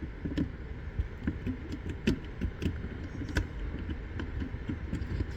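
Handling noise from sound equipment and cables being moved and plugged: scattered sharp clicks and light knocks over a low rumble.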